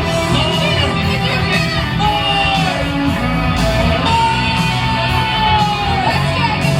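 Loud rock music with singing and guitar over a strong steady beat. One long held note runs through the middle and dips at its end.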